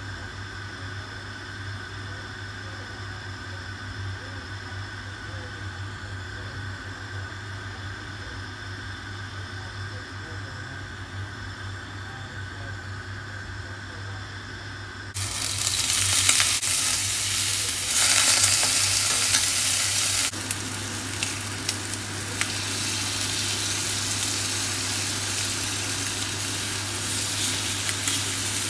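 Butter melting quietly in a hot steel frying pan over a low steady hum, then about halfway through a sudden loud sizzle as raw chicken pieces go into the hot fat. The hiss swells again for a couple of seconds, then settles into steady frying with occasional small clicks of tongs against the pan.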